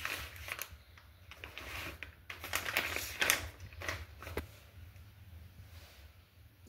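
Irregular light clicks and knocks from kitchen work, things being handled and set down, with a few louder knocks about three seconds in, over a steady low hum.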